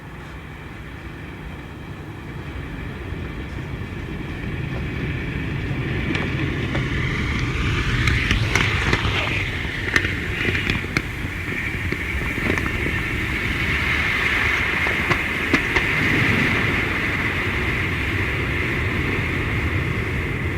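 Model train running along the layout's track, its motor and wheels humming as it draws closer over the first several seconds, then holding steady. Several sharp clicks come as the wheels cross rail joints or points.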